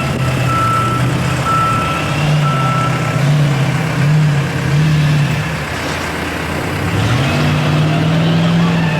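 A truck engine running with its pitch rising and falling, then climbing and holding high near the end, while a reversing alarm beeps about once a second for the first three seconds.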